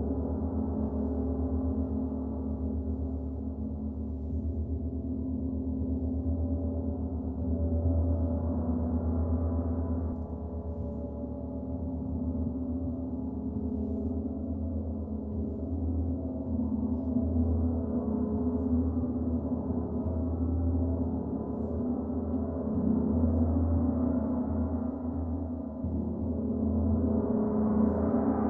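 Gong played continuously with a soft beater, a deep sustained shimmering wash of overlapping tones that swells and recedes in slow waves every few seconds, a fresh swell building near the end.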